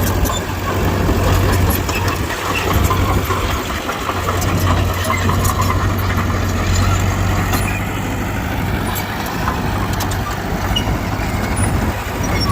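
The diesel engine of heavy earthmoving machinery running steadily with a deep, even hum, and scattered light metallic clanks over it.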